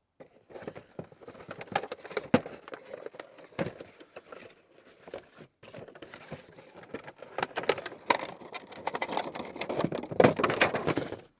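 Handling noise of small parts and objects: rustling, scraping and irregular small clicks and knocks, busiest near the end.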